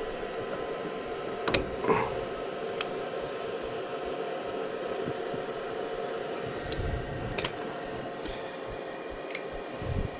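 Gas furnace's draft inducer motor running with a steady hum, with several sharp clicks and knocks over it, the loudest two about one and a half and two seconds in.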